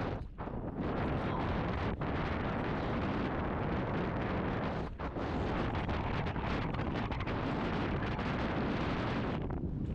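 Heavy wind buffeting on the camera microphone during a fast mountain bike descent, a steady loud rumbling roar with brief dips about five seconds in and near the end.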